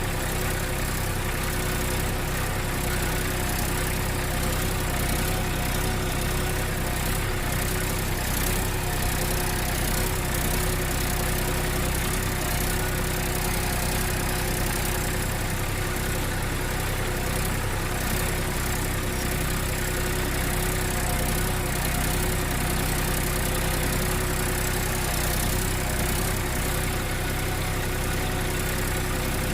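An engine idling steadily at an even pitch and level throughout.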